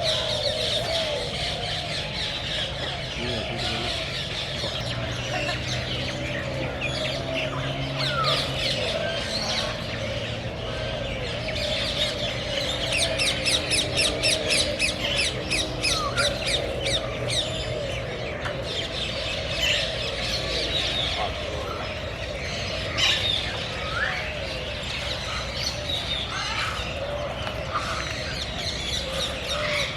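A dense chorus of many aviary birds chirping and squawking over one another. Partway through there is a fast chattering run of sharp, rapidly repeated calls.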